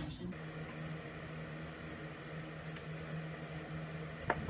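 Steady low hum of a small motor running, with a short click near the end.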